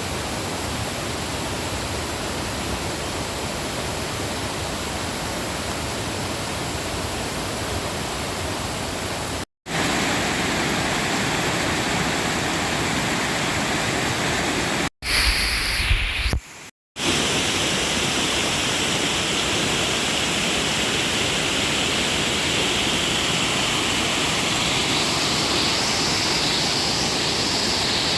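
Steady rush of water from a fast rainforest creek or small falls, broken by brief cuts about ten and fifteen seconds in, with a short lower, rumbling stretch just after the second cut.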